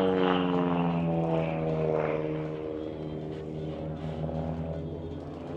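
Propeller-driven stunt plane's engine passing by in flight, its pitch falling over the first couple of seconds as it goes past, then holding steady.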